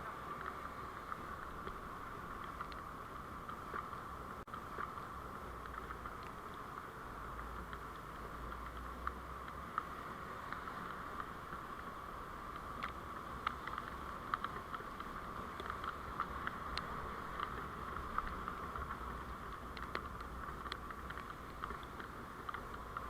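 Steady road and running noise of a vehicle on the move, picked up by a dashcam microphone, with a low rumble and scattered small clicks and rattles.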